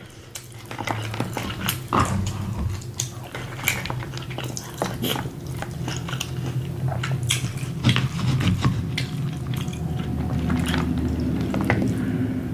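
Close-miked chewing of a loaded taco: many short, sharp crunches and wet mouth sounds, over a low steady hum.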